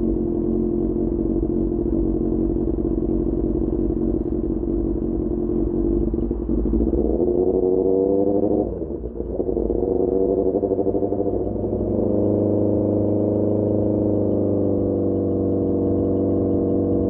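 SRK600 inline-four motorcycle engine through a Pure Austin Racing GP1R exhaust. It holds a steady note, then revs rise under acceleration, dip briefly about nine seconds in as at a gear change, rise again and settle into a steady cruise.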